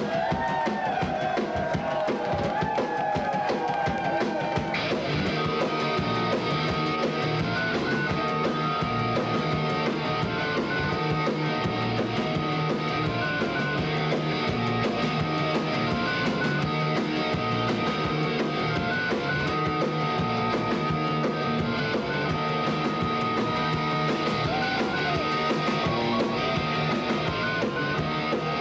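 A rock band playing live, with a drum kit and guitars. The sound grows fuller and brighter about five seconds in.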